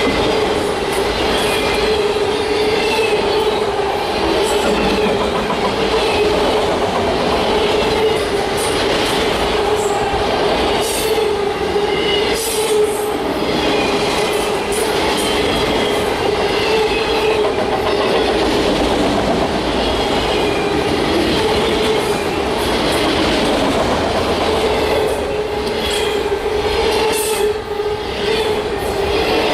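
Freight train cars rolling past with a steady rolling hum, irregular clicks of wheels over rail joints, and short high-pitched wheel squeals.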